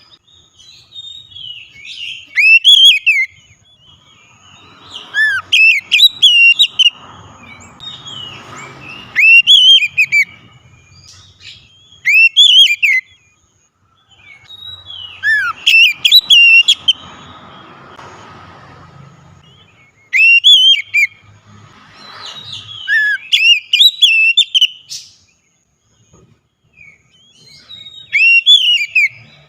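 Oriental magpie-robin (kacer) singing: loud, sweet whistled phrases with quick up-and-down glides, repeated every few seconds with short pauses between. This is the kind of loud song played as a lure to set a quiet caged kacer singing.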